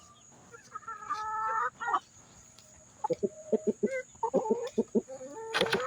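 Backyard hens calling: a drawn-out call about a second in, then a run of short clucks. A louder noisy burst comes in near the end.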